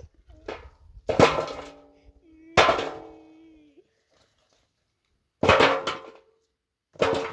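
Four sharp metallic clangs, a second or more apart, each ringing briefly after the strike.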